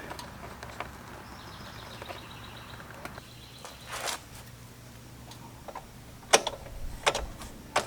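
Quiet handling sounds of hands working on the motorcycle: a few sharp clicks and knocks in the second half, over a low steady hiss.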